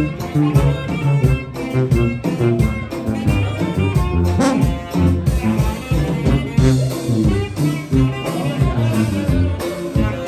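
Live orquesta ranchera playing an instrumental passage: saxophones carrying the melody over tuba, bajo sexto and drums, with a steady dance beat.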